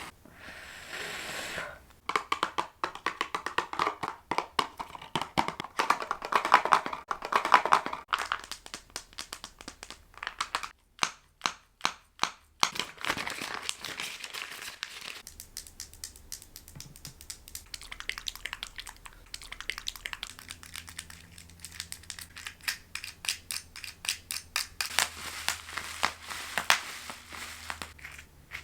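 A rapid series of different close-up ASMR trigger sounds made by handling small objects, mostly quick clicks and taps, changing to a new sound every few seconds.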